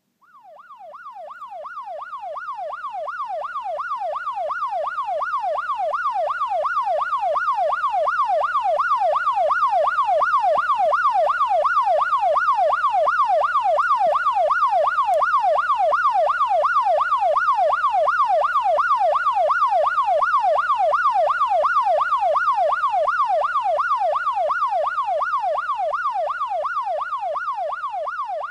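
Electronic siren in a fast yelp, its pitch sweeping up and down about two to three times a second. It fades in over the first few seconds, then holds steady.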